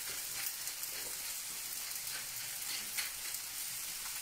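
Curry vegetables frying in a pan on a gas grill: a steady sizzling hiss, with a few faint clicks of a utensil.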